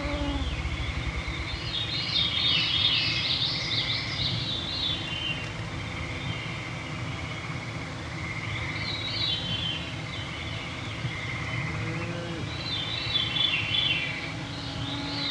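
Evening forest chorus: songbirds sing in several separate bursts of rising and falling phrases over a steady high trill. Mosquitoes whine close to the microphone.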